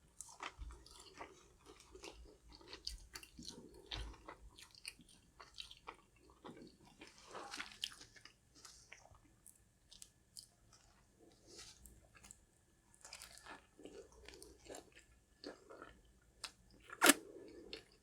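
Close-miked chewing and crunching of a crispy fried fish sandwich: a quick run of small crackly crunches as the batter-coated flounder patty is chewed, with one louder crunching bite near the end.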